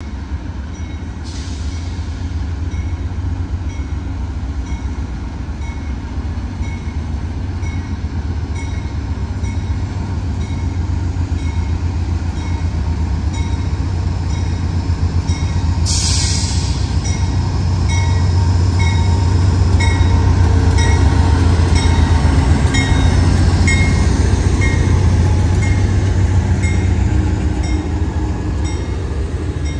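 Amtrak diesel-electric locomotive hauling a passenger train slowly out of the station. Its engine rumbles and grows louder as it draws near and passes, and its bell rings about once a second. Two short bursts of hiss come, one near the start and one about halfway through.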